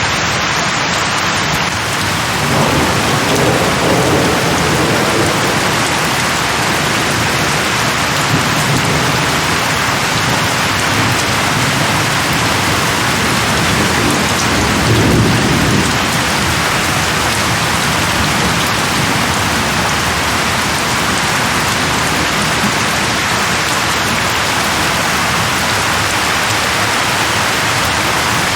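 Steady heavy rain falling, with low rumbles of thunder swelling about three seconds in and again around the middle.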